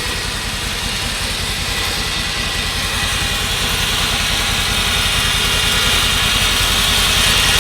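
Vehicle engine idling steadily, with a high, even whine that comes in and grows louder over the last few seconds.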